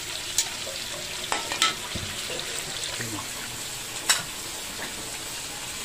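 Chicken gizzard adobo sizzling steadily in a metal wok as it is stirred with a metal utensil, with a few sharp clicks of the utensil against the pan, the loudest about four seconds in.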